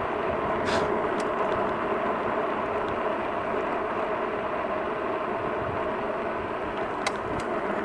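Steady riding noise from a Jansno X50 electric bike under way: tyres on the road and wind across a microphone with no windscreen. A few sharp clicks come through, two near the start and two near the end.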